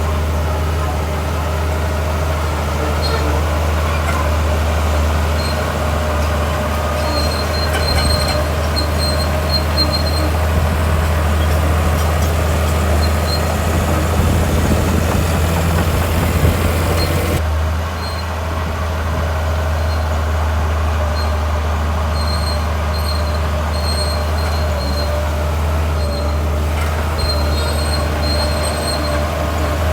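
Heavy diesel earthmoving machinery running steadily under load, a deep engine drone with faint intermittent high squeaks. Louder, rougher noise comes up around the middle, and the sound shifts abruptly a little past halfway.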